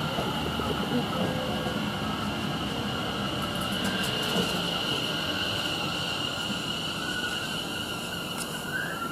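Greater Anglia Class 720 electric multiple unit arriving at the platform. A steady high-pitched whine runs over a continuous rumble.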